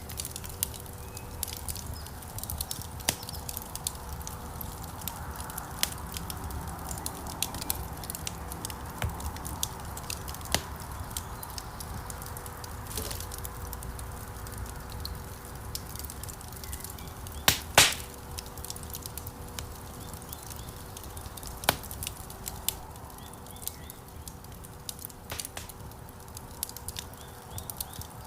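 Wood fire crackling in a fireplace: scattered sharp pops and snaps over a low steady rumble of the flames, with one louder pop about 17 seconds in.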